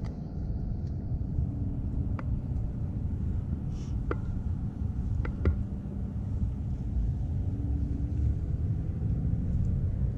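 Steady low rumble of a car's engine and tyres heard from inside the moving vehicle, with a few light clicks and knocks.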